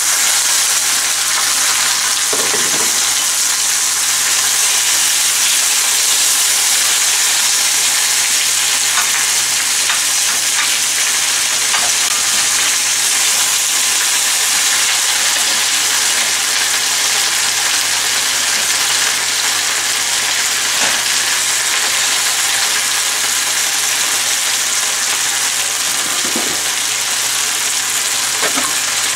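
Green vegetable strips and onion frying in a hot cast-iron skillet: a steady, loud sizzle, with a few light scrapes and taps of a metal spatula stirring them.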